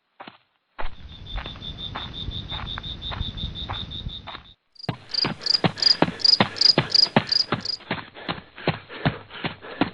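Forest insects shrilling on one steady high-pitched tone, which drops out twice and starts again. About five seconds in, a higher pulsing insect call joins at about three beats a second for a few seconds. Soft regular knocks run through the second half.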